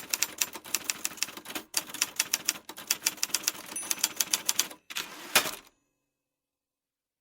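Typewriter being typed on: a fast run of sharp key strikes, several a second, broken by a few short pauses. A single louder strike about five seconds in, then the typing cuts off suddenly.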